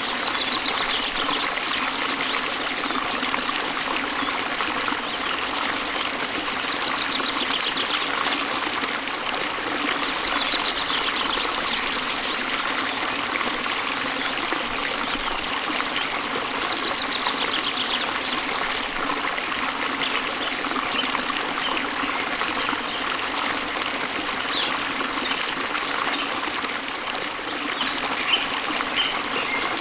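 Steady rush of a waterfall, with a bird singing short high phrases every few seconds and a few brief chirps near the end.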